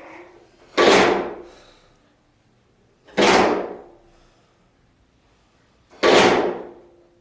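Three sharp knocks about two and a half seconds apart, each dying away over about a second with a faint low ringing tone.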